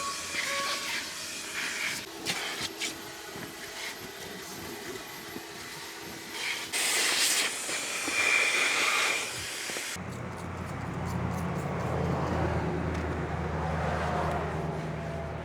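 Car-detailing noises: a hiss of spray with scattered knocks, louder for a couple of seconds past the middle. Then, after a sudden cut, a steady low engine hum.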